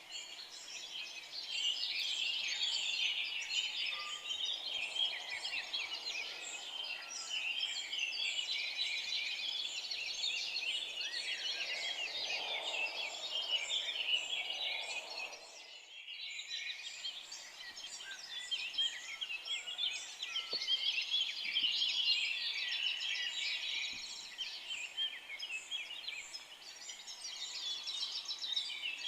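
Many forest songbirds singing and chirping at once in a dense, overlapping chorus of high, quick notes and trills. The chorus drops away briefly about halfway through, then carries on.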